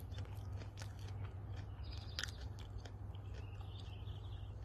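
A person chewing a mouthful of raw epilobium (willowherb) leaves: irregular soft crunchy clicks of chewing, over a low steady hum.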